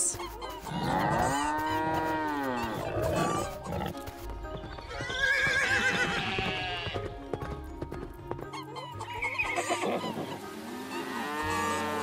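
Farm animal calls over light background music. Cows moo in long calls over the first few seconds, a horse whinnies around the middle, and more mooing comes near the end.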